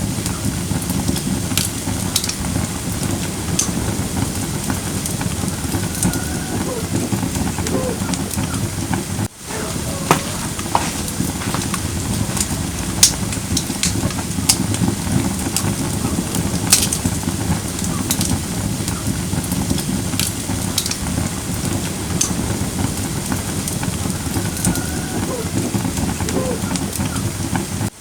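Firewood burning in a fire pit: a steady low rumble of flames with frequent sharp crackles and pops. The sound cuts out briefly about nine seconds in.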